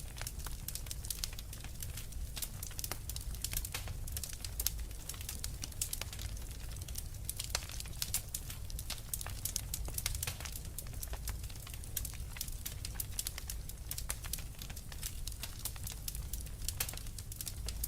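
Wood fire crackling steadily, with dense, irregular snaps and pops over a low rumble.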